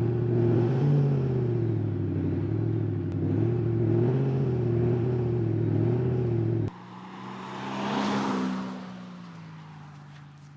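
Active exhaust sound generator on a diesel Mercedes C-Class playing a synthetic V8 note while the car is driven, the note rising and falling gently with the throttle. About two-thirds through it drops abruptly to a quieter, lower note, with a rush that swells and fades while the pitch slides down.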